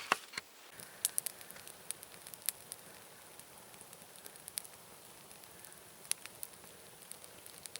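Small campfire crackling faintly, with scattered, irregular sharp pops and ticks.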